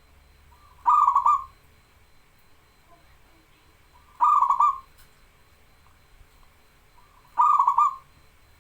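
Zebra dove (perkutut) cooing: three short phrases of quick rolling coo notes, about three seconds apart.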